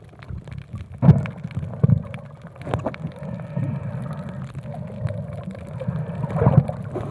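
Muffled underwater sound: water moving around the camera with gurgling surges, over a low rumble.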